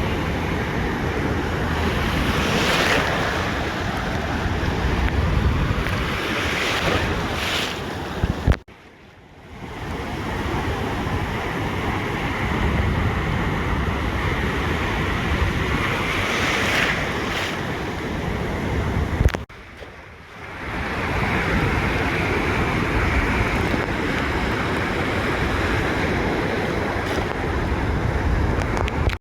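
Ocean surf washing onto a beach, a steady rush with wind rumbling on the microphone. The sound drops out suddenly twice, about a third and two-thirds of the way through, and fades back in.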